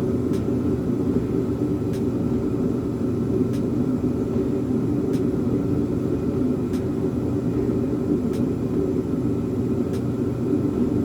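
Steady low mechanical hum with a faint click about every second and a half.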